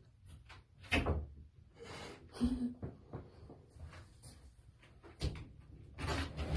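A few scattered knocks and bumps, the clearest about a second in and about two and a half seconds in.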